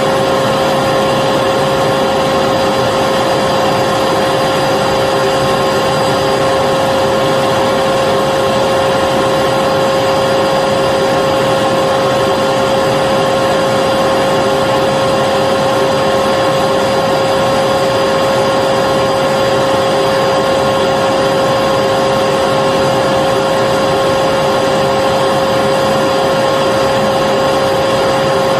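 Vacuum cleaner running continuously: a steady motor whine over a rushing hiss, never changing in pitch or level.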